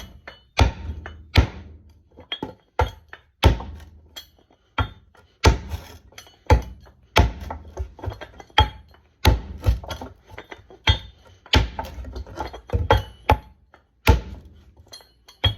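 Pickaxe repeatedly striking a knotty wooden 2x10 to split it along the grain: a long, irregular run of sharp, heavy blows, about one or two a second.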